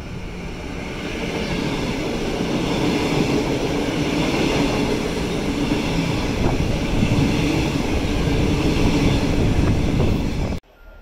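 Queensland Rail electric multiple-unit train running into the station alongside the platform: a steady rumble of wheels on rail with hiss, growing louder over the first three seconds as it nears, then cutting off suddenly near the end.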